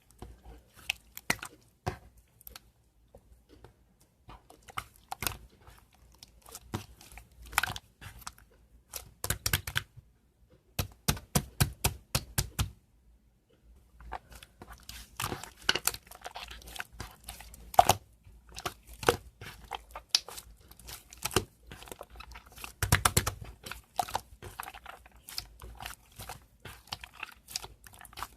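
Close-up crackling and crunching handling sounds: irregular runs of sharp, crisp clicks with brief pauses.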